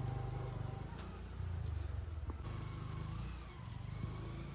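A small engine running steadily, a low pulsing hum.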